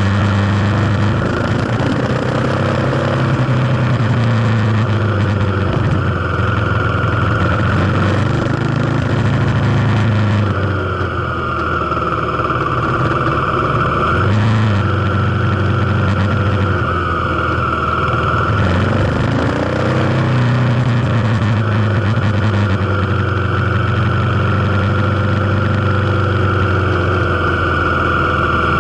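Kawasaki KLX250's single-cylinder four-stroke engine running as the bike is ridden, its pitch dropping and rising again a couple of times around the middle with changes of throttle.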